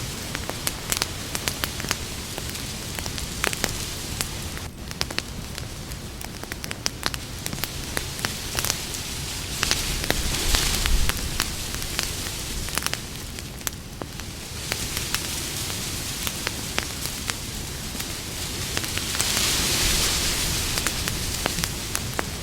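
Campfire crackling, with frequent sharp irregular pops and snaps over a steady hiss. The hiss swells louder about ten seconds in and again near the end.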